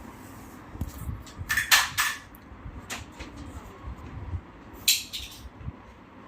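Sharp clicks and clatters of small hard objects being handled and knocked together: a cluster about one to two seconds in, then single knocks near three and five seconds.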